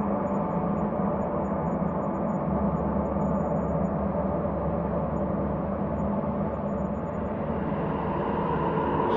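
Ambient space drone: layered low, sustained tones that hold steady, with a deeper hum swelling a little a few seconds in.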